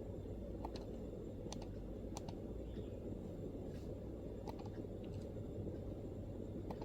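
MacBook laptop keyboard: a few sparse, irregular keystrokes, single clicks and quick pairs, over a steady low background rumble.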